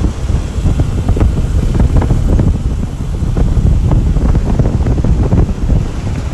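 Heavy wind buffeting the microphone of a moving vehicle, a loud low rumble that gusts unevenly.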